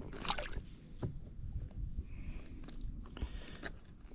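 Close handling noise: scraping, rustling and light knocks, with a brief sharp rustle just after the start.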